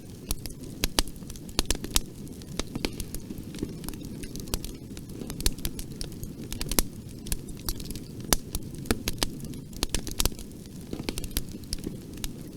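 Bonfire burning: a steady low rumble of flames with frequent, irregular sharp crackles and pops from the burning wood.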